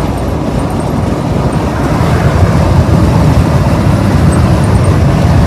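Steady low rumble of a car driving, heard from inside the cabin, growing slightly louder about two seconds in.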